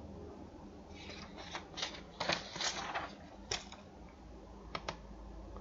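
Computer keyboard keystrokes: a quick run of clicks in the first half, then two more near the end, over a steady low hum.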